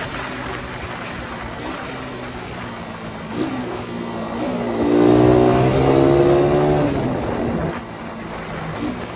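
Suzuki Satria FU 150's single-cylinder four-stroke engine running. About five seconds in it revs up and holds louder for around two seconds, then eases back.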